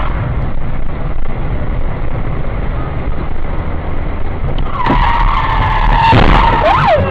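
Car tyres squealing in a skid under hard braking. A steady high squeal starts about five seconds in over steady road and engine noise, grows louder, and ends in a short wail that rises and falls.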